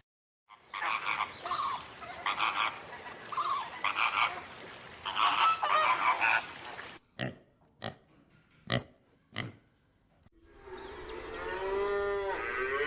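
Animal calls: a run of loud, harsh, repeated honking calls, then four short sharp clicks, then a drawn-out pitched call that rises near the end.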